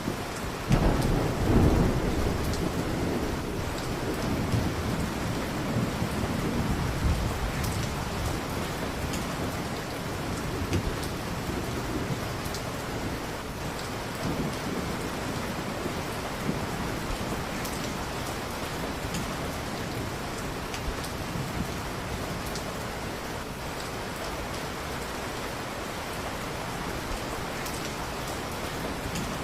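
Steady heavy rain, with a roll of thunder rumbling in about a second in and fading away over the next several seconds.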